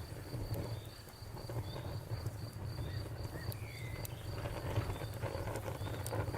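Campfire crackling, with scattered sharp pops over a low steady rumble. Behind it, an insect chirps in a quick regular pulse that stops a little past the middle.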